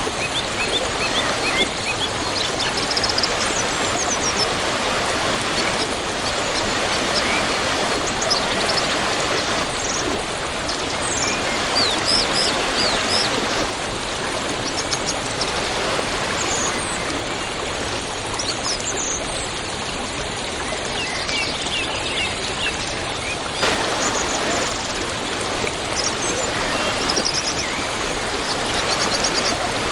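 Waterfall, a steady rush of falling water, with birds chirping over it many times.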